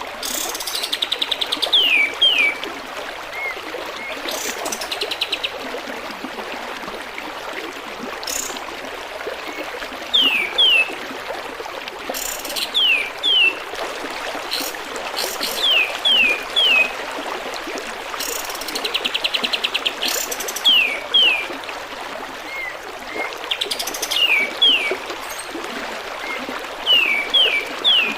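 Kapas tembak song: pairs of quick, clear downward-sliding whistles repeated every couple of seconds, broken now and then by a fast buzzy rattle, over the steady trickle of running water.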